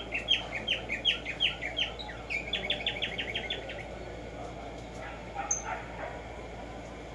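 Black-striped sparrow singing: a series of down-slurred whistled notes, about three a second, that speeds up into a fast trill about two and a half seconds in and ends about four seconds in.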